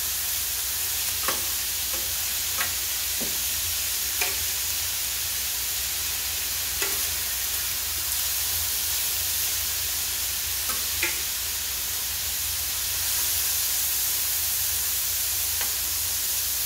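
Sliced sausage and diced onions sizzling in a steady hiss on a hot flat-top griddle, with a metal spatula clicking and scraping against the plate every second or few as they are stirred.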